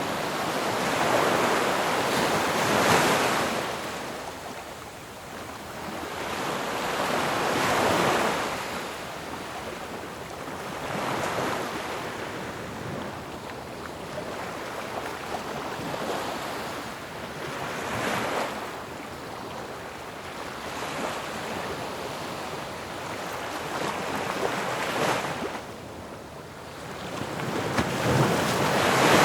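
Ocean waves crashing and washing back, rising and falling in surges every few seconds; the biggest crashes come about three seconds in and at the end.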